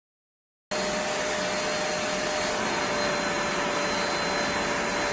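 Hoover Spotless portable spot cleaner's suction motor running steadily, a rushing blow with a steady whine on top. It cuts in abruptly under a second in.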